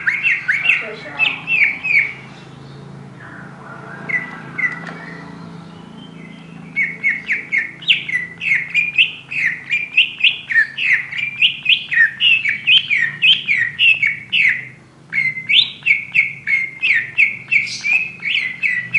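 Oriental magpie-robin (kacer) singing in rapid runs of short, sweeping, repeated chirps, about three a second. It pauses for a few seconds near the start and then keeps up a long continuous run.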